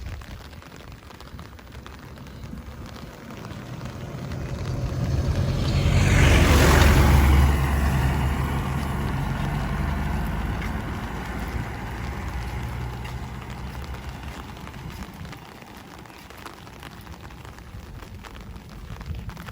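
A motor vehicle approaching and passing close by on a wet road, its engine and tyre hiss rising to a peak about six to seven seconds in, then fading away slowly. Steady rain falls underneath.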